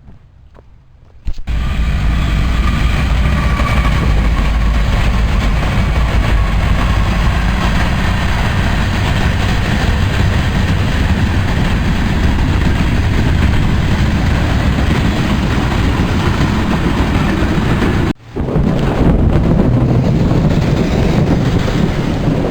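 Heavy rainstorm pouring down, with wind rumbling on the microphone. It starts suddenly about a second in, cuts out briefly near the end and then resumes.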